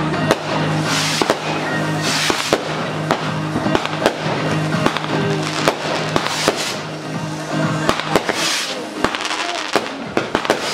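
Firework display: frequent sharp bangs, with several hissing, crackling bursts spread through, over music with sustained low notes.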